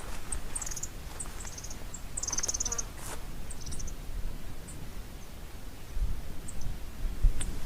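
Small songbirds chirping, with short, quick high trills in the first half. A low rumble swells near the end.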